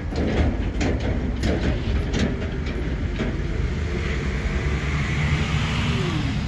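Freight train rolling past at close range: a steady rumble of wheels on rail with a series of sharp clicks and knocks in the first half as the wheels cross rail joints, settling into an even rushing rumble.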